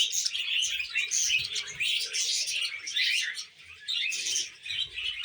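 Several pet budgerigars chattering: a dense, continuous run of quick chirps and warbles, with a brief lull about three and a half seconds in.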